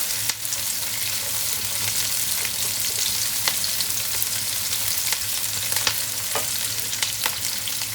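Garlic and onion sizzling in plenty of oil in a frying pan, a steady hiss with scattered crackles and pops.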